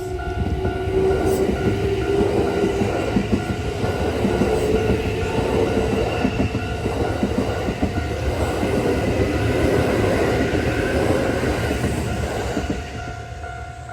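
Kintetsu eight-car semi-express, a 1031-series set coupled to an 8400-series set, passing a level crossing. Wheels clatter over the rail joints, and a motor whine rises in pitch over the first few seconds. The crossing's pulsing alarm bell is heard at the start and again near the end, once the train noise drops away.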